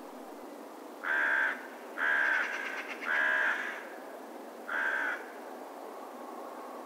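A crow cawing four times, harsh calls of about half a second each, over a steady faint hiss.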